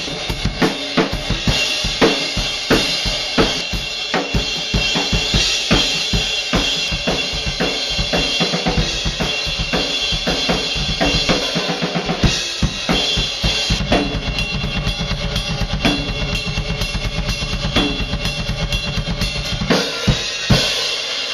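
Rock/metal drum kit played hard: kick, snare and a steady cymbal wash in a driving beat. About two-thirds of the way through, the bass drum changes to a very fast, continuous run of kicks. It ends on a few heavy hits and cuts off suddenly.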